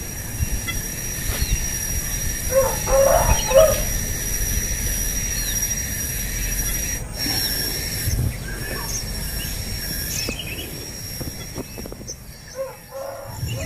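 Birds calling: short chirps and calls, with a louder cluster of calls about three seconds in, over a steady thin high tone and a low background rumble.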